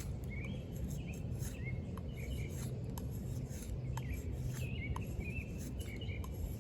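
Small birds chirping repeatedly in short, quick notes, with a few faint sharp ticks and a steady low background hum.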